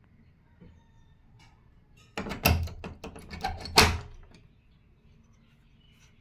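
A short burst of knocks and scraping about two seconds in, lasting about two seconds, with two loud thuds about a second and a half apart.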